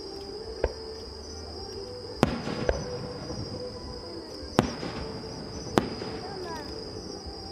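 Aerial fireworks bursting: about five sharp bangs at irregular intervals, some followed by a short rolling echo, over a steady high trilling of insects.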